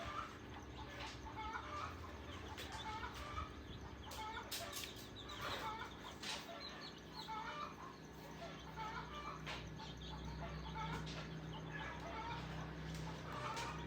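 Chickens clucking repeatedly, with scattered sharp clicks and a low steady hum that grows in the second half.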